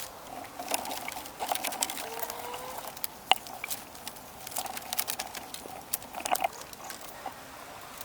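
Irregular light clicks and taps, several a second, like small hand-work on wood or bamboo, with a short rising squeak about two seconds in.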